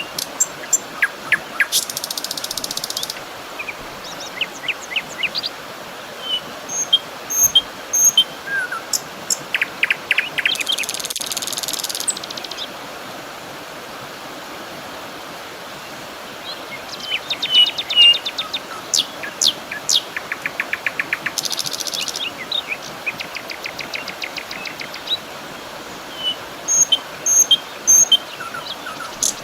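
Outdoor nature soundscape: birds chirping in short high notes, with a few buzzy trills lasting a second or two, over a steady background hiss.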